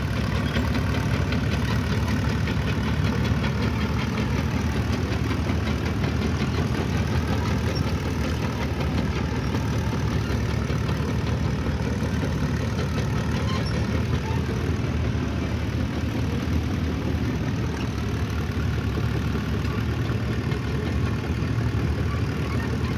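Engine of antique heavy earthmoving equipment running steadily, a continuous low rumble with its pitch drifting slightly up and down as it works.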